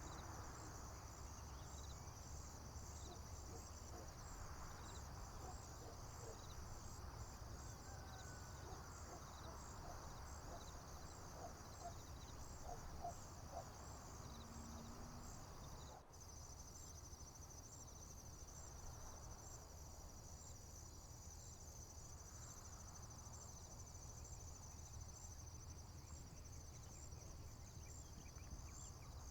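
Crickets chirping in a steady, high, pulsing chorus over a faint low rumble. The chirping pattern changes abruptly about halfway through.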